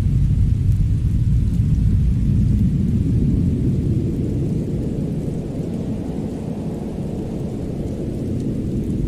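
A deep, steady rumble, like wind gusting against an attic, easing slightly after the middle and building again near the end, with faint crackles of a fireplace over it.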